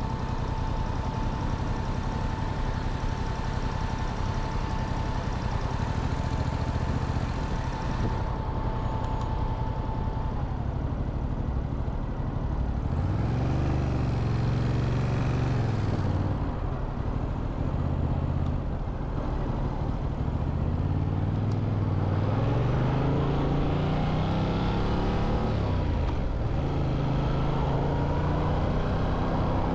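Motorcycle engine running under way with steady wind rush. From about halfway through, the engine pitch climbs and drops several times as the bike speeds up and slows.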